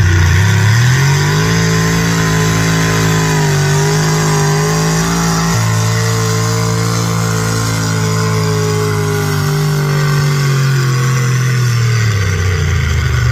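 Pulling truck's engine at full throttle under load: the revs climb over the first second or so, hold high and nearly steady for about ten seconds, then drop off near the end.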